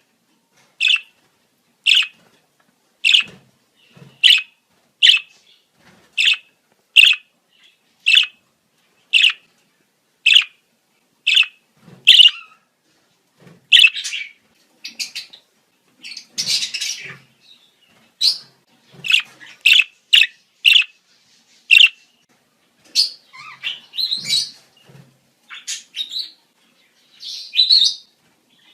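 Budgerigars calling in breeding-season chatter. Sharp chirps come about once a second at first, and about halfway through they give way to busier, longer warbling calls.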